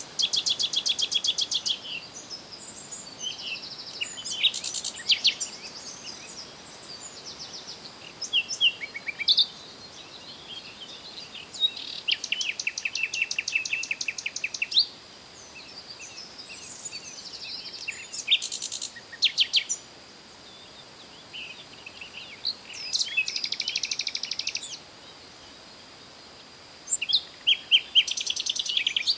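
Songbirds singing: bouts of fast, rattling trills and short chirps every few seconds, over a faint steady high-pitched tone.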